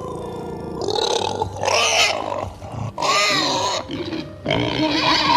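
An animal making a series of loud, separate calls, each under a second long, whose pitch bends up and down.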